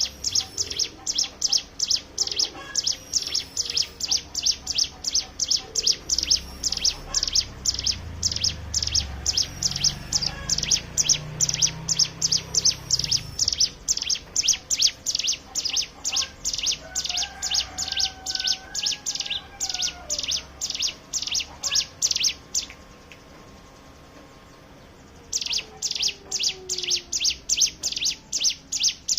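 Hill prinia (ciblek gunung) singing its fast 'ngebren' song: a long run of sharp, evenly repeated high chip notes that breaks off about 23 seconds in and starts again a couple of seconds later. Faint lower sliding whistles and a brief low rumble sit underneath.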